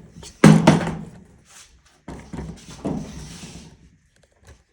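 Knocks and thumps of a Kenmore 700 series dryer's control panel being worked loose by hand, in three clusters, the last with a rattling scrape about three seconds in.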